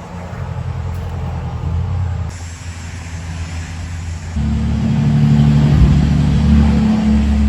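A steady, low motor rumble that gets suddenly louder about four seconds in.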